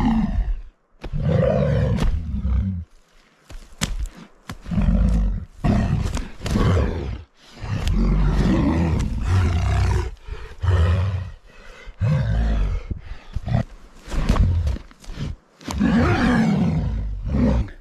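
Grizzly bear roaring and growling in repeated loud bursts, each about a second long with short breaks between, and sharp knocks scattered through.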